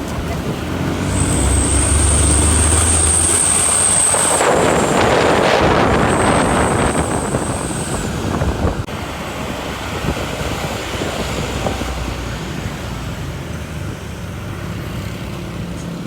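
Motor vehicle engine running with a low drone. A thin high whine sounds twice, and a loud rushing hiss comes about four and a half seconds in, lasting over a second.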